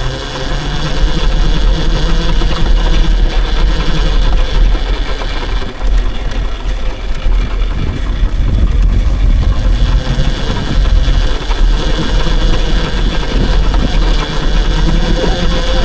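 Loud, steady rumble of riding along on a dirt bike: wind buffeting the microphone, mixed with motor and tyre noise.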